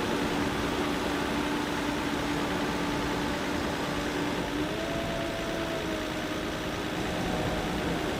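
Heavy machine engine running steadily, its pitch stepping up about halfway through.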